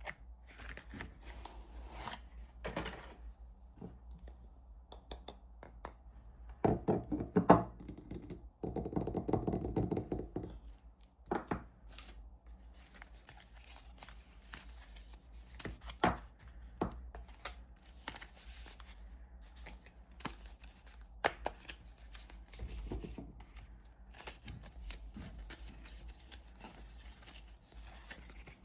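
Hands opening soap packaging: wrappers tearing and crinkling, with scattered light taps and clicks from handling. The longest, loudest tearing comes about a third of the way in.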